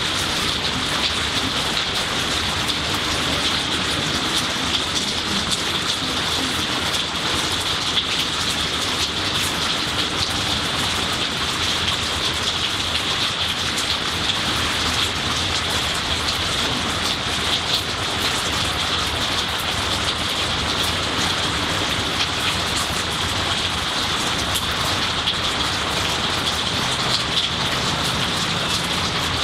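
Steady rain falling on tree leaves and the garden: an even hiss with a dense patter of individual drops.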